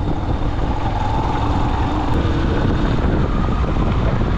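Yamaha XTZ 125's single-cylinder four-stroke engine running steadily while the bike rides along a gravel dirt road, with a heavy low rumble.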